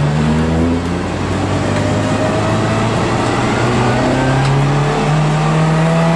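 Honda Integra Type R DC5's K20A four-cylinder engine accelerating under load. The revs dip about a second in, then climb steadily.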